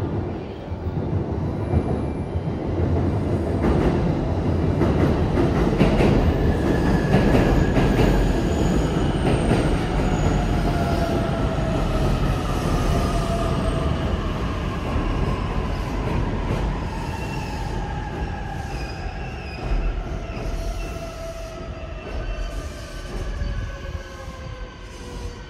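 JR Joban Line electric train running in on the elevated track overhead, its wheels rumbling on the rails and building to a peak a few seconds in. Then several whines fall slowly in pitch as it brakes to a stop at the station.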